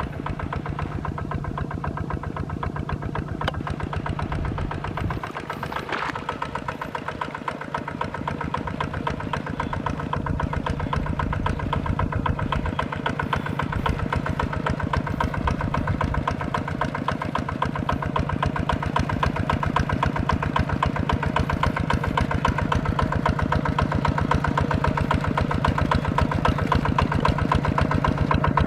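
Small farm tractor's engine running steadily while plowing a rice field, its low firing beat even throughout and growing louder over the second half.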